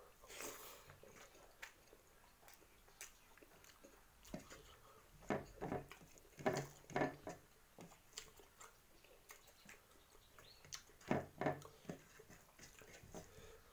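A person eating rice and noodles by hand, chewing with soft wet mouth clicks and smacks. The clicks come in scattered clusters, busiest around the middle and again near the end.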